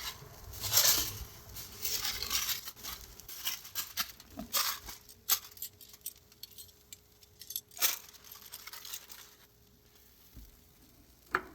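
Metal grilling tongs clicking and scraping against the barbecue grate while steaks are handled, a run of irregular clinks and clicks that thins out about halfway through.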